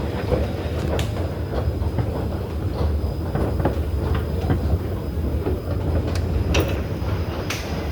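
Train running on its rails: a steady low rumble with a few sharp clicks, one about a second in and two near the end.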